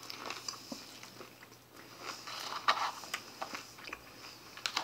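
A person chewing a mouthful of crisp salad, with irregular crunching that is busiest midway, and a few sharp clicks of a fork against the plastic bowl near the end.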